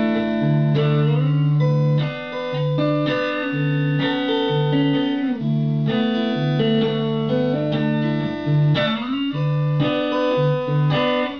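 Guitar played fingerstyle, the picking hand going up and down across the strings, with a repeating bass note pulsing under ringing chord tones.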